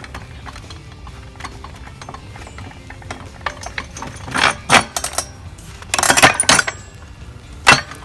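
A manual lever-action paver splitter being set on a geode, with small metal clicks and ratcheting as the threaded post handles are turned. From about halfway in come a handful of loud, sharp metal knocks and scrapes, the loudest near the end.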